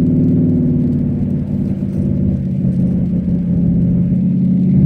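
Cadillac STS-V's supercharged V8 running under load on track, a steady engine note that eases slightly in the middle and builds again near the end.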